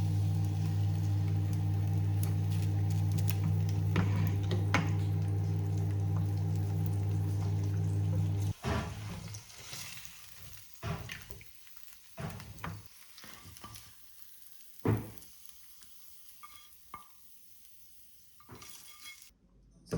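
A steady, low electric hum from a household appliance runs and cuts off suddenly about eight and a half seconds in. Scattered clinks and knocks of things being handled follow.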